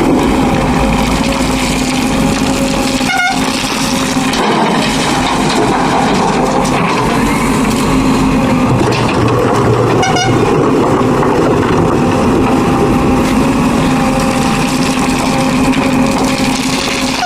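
Heavy diesel machinery of a backhoe loader running steadily under load, with a steady droning tone. A short, sharp pitched sound cuts in about three seconds in and again about ten seconds in.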